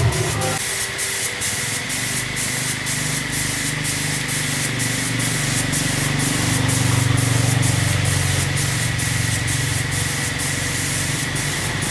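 A steady, loud hiss of a pressurised spray, with a low motor hum beneath it and faint regular ticks about twice a second.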